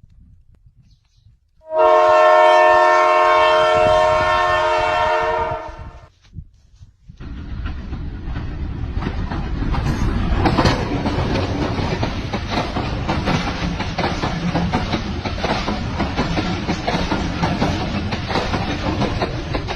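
Train horn sounding one long steady blast for about four seconds, then after a short pause the train passing close by, with a continuous rumble and the clatter of wheels over the rail joints.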